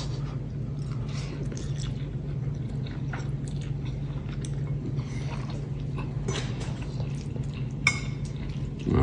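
A person chewing a mouthful of tagliatelle with meat sauce, with small wet mouth clicks and smacks, over a steady low hum.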